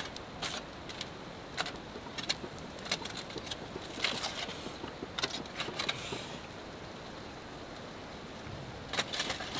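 Scattered short clicks and rustles of a warmed sweet potato being handled and opened, over a steady background hiss.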